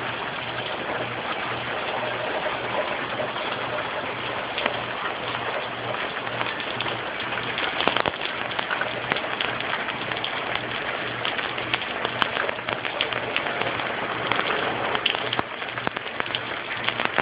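Heavy tropical-storm rain falling steadily, a dense patter with many sharp individual drop hits.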